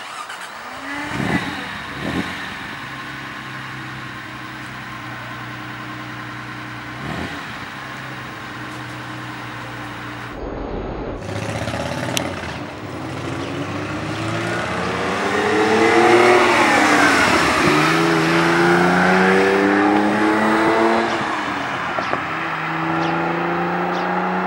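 Ferrari Dino 246 GT's 2.4-litre V6 revved twice briefly, then running steadily, then accelerating away. Its note climbs to a loud peak, falls back, climbs again and drops once more before holding steady.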